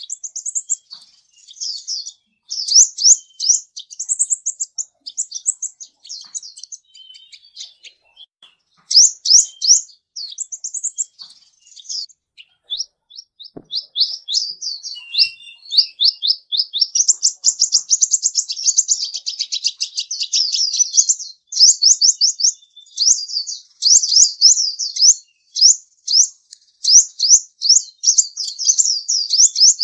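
A small bird chirping in quick runs of short, high, sweeping notes, with brief pauses and a longer, nearly unbroken trill about halfway through.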